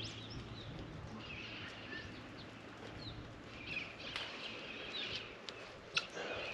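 Faint chirping of small birds over quiet outdoor background noise, with one sharp click about six seconds in.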